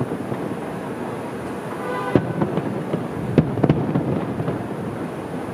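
Distant fireworks shells bursting: three bangs, one about two seconds in and two close together just over a second later, over a steady background rumble.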